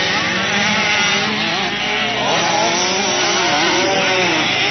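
Several motocross bike engines running at once, their pitch rising and falling over and over as they rev up and back off.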